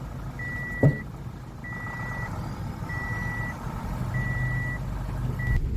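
A vehicle's reversing alarm beeping steadily, about one beep every second and a quarter, over the low running of its engine as it backs up. One sharp knock sounds just under a second in.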